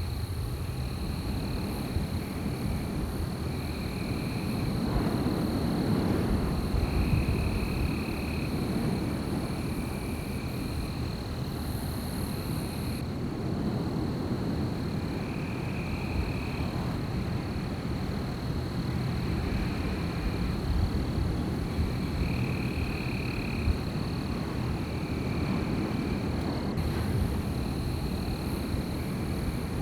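Wind blowing through a night forest, a steady low rush that swells for a few seconds early on, with a constant high trill and a repeated shorter call about a second long every few seconds from night animals.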